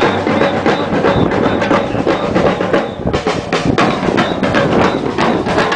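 Batucada percussion group drumming a fast, dense samba rhythm, with bass drums under sharper hand-drum and wood-block-like hits.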